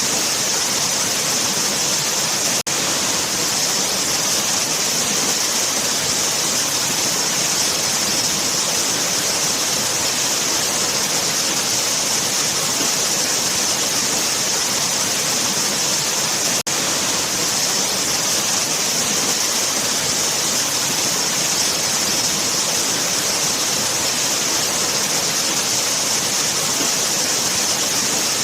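Waterfall: falling water rushing steadily with a bright hiss. The sound dips for an instant twice, once a couple of seconds in and again about halfway through.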